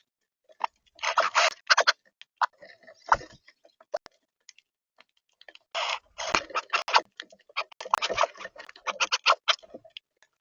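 Close-up pecking and scratching at seed on a bird feeder camera's feeder: irregular bursts of quick tapping and scraping with short pauses between.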